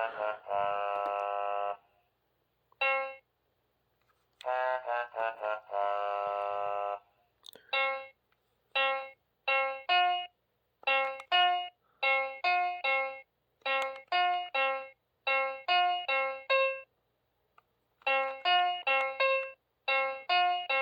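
Memory Maze handheld electronic memory game sounding its piano-sample tones through a small speaker. Two fast runs of notes each end in a held chord in the first seven seconds, then short single notes follow in quick groups as a sequence is played and repeated.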